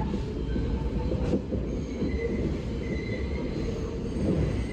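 New York City subway train running through the tunnel with a steady low rumble. Thin, high wheel squeal comes in about two seconds in and keeps returning.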